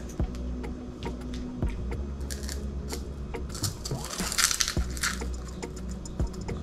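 Bites into and crunches a crisp wafer cone snack, loudest about four to five seconds in, with scattered small clicks around it.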